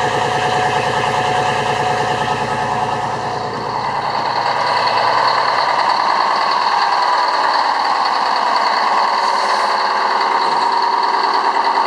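Detroit Diesel 6-71 inline-six two-stroke marine diesel idling steadily with an even, fast firing beat, freshly repaired with a new cylinder head and one new cylinder and piston, and running smoothly. About four seconds in the sound loses some of its deep low end.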